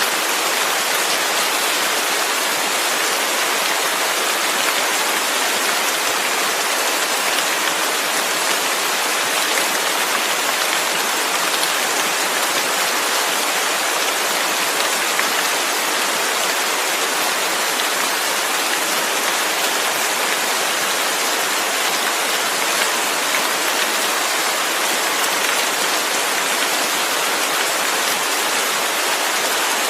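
Steady rain falling, a constant even hiss with no single drops or other events standing out.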